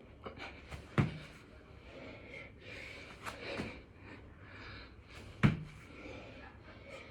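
A man breathing hard, panting and gasping, while doing six-count burpees. Two heavy thuds of the body meeting the floor come about a second in and again about four and a half seconds later.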